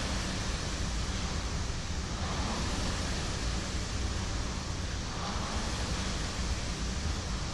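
Concept 2 rowing machine's fan flywheel whooshing with each pull, swelling about every three seconds in slow, steady strokes.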